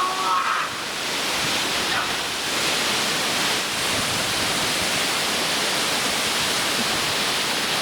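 Waterfall pouring down close by: a loud, steady rush of falling water.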